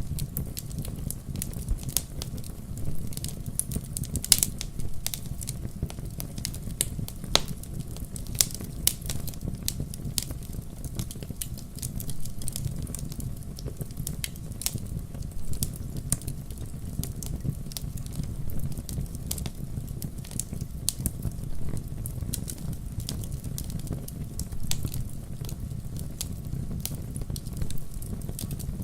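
Fire in a fireplace crackling: many irregular sharp pops and snaps over a steady low rumble.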